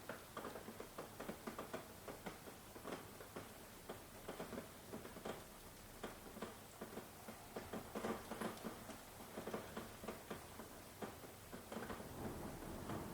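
Raindrops pattering and dripping in irregular, separate taps, with a low rumble rising near the end.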